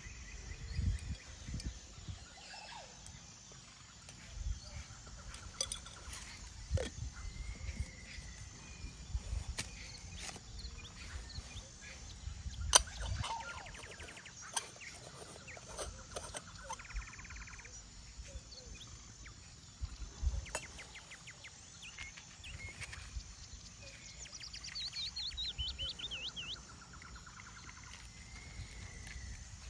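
Windy forest ambience: gusts rumbling on the microphone, scattered bird calls, and occasional sharp clicks and knocks, the loudest about halfway through.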